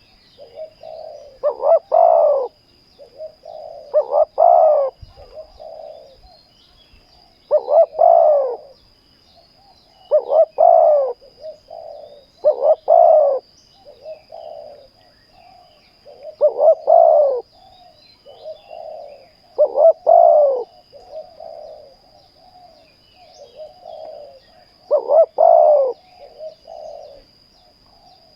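Spotted doves cooing: loud coo phrases recur about every two to four seconds, with softer cooing between them. A thin steady high tone runs underneath.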